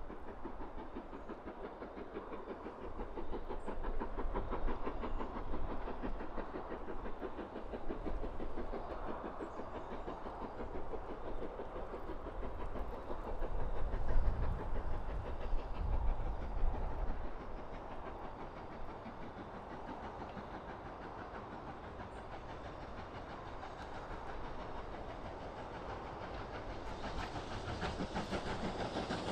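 A train running past on the line, its wheels clattering continuously over the rails, with a low rumble that builds to its loudest about halfway through and then fades. A rising hiss comes in near the end.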